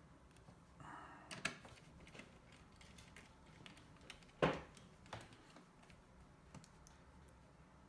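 Scattered light clicks and taps of small parts being handled while a PS4 Slim console is put back together; the sharpest tap comes a little past the middle.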